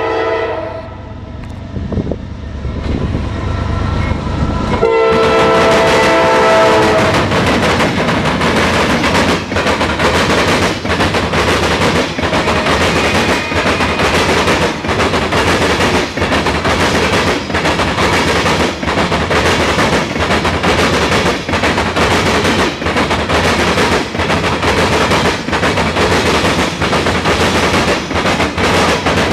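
Norfolk Southern freight train: the diesel locomotive's air horn ends a blast right at the start, the locomotives rumble closer, and the horn sounds again about five seconds in for about two seconds. Then tank cars and boxcars roll past, their wheels clacking in a steady rhythm over the rail crossing.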